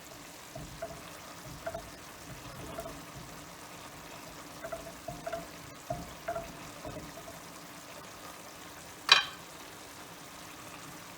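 Butter melting and faintly sizzling in a frying pan, with small scattered pops throughout. One sharp clack about nine seconds in.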